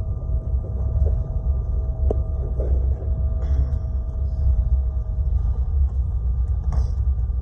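Jet airliner heard from inside the passenger cabin: a steady low rumble of engines and airflow, with a faint steady whine that stops about five seconds in, and a couple of light clicks.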